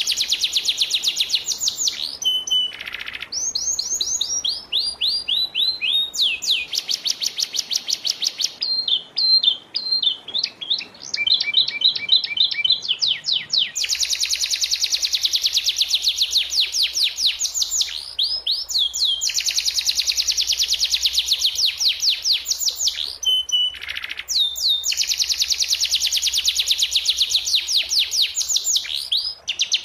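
Domestic canary singing a long song of rolling trills: runs of rapidly repeated notes that change in speed and pitch from one phrase to the next, with short breaks between phrases. It is a masteran, a tutor song for young canaries to copy.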